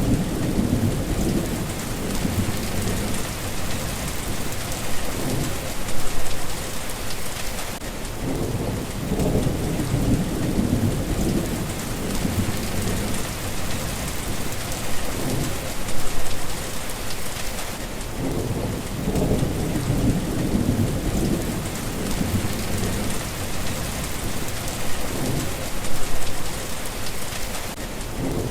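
Steady rain hissing, with low rumbles that swell and fade every few seconds and peak about every ten seconds.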